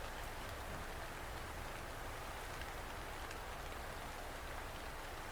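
Steady rain falling, a soft even hiss with no thunder.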